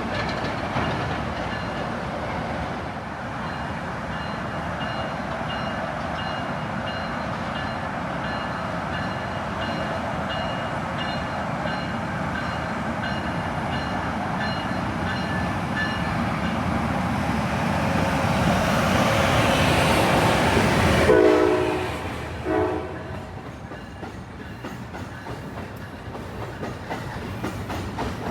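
New Jersey Transit electric trains moving through the station. The rumble builds for about twenty seconds, then drops off sharply, and two short train-horn blasts sound right after.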